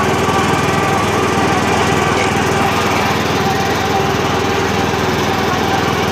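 Troy-Bilt Super Bronco riding mower's 19 horsepower Kohler engine running steadily while the tractor is driven. A steady whine sits over the engine note; the owner attributes this to the hydrostatic transmission.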